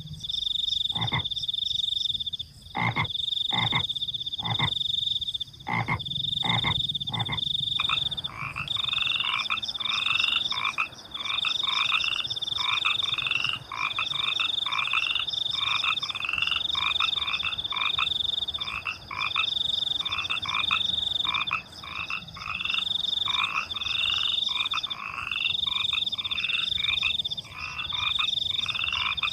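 Frogs croaking over crickets trilling steadily at a high pitch. At first there are about seven separate low, short croaks; from about eight seconds in a fast, continuous chorus of higher croaking calls takes over.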